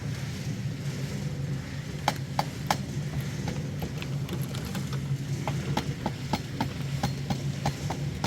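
An engine running steadily with a low hum, with irregular sharp clicks and knocks starting about two seconds in.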